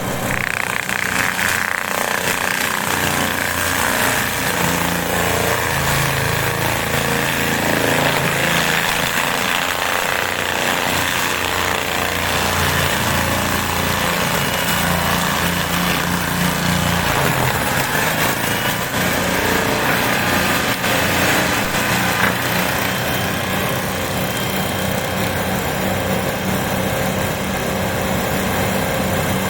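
Tractor-mounted RMX forestry mulcher grinding into trees, with the tractor engine running under load. A steady, loud, dense mechanical din; the engine's note sags and recovers as the drum bites.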